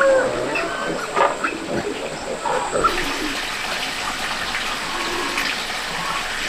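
The tail of a rooster's crow, then scattered farm-animal calls; about three seconds in, a steady sound of running water takes over.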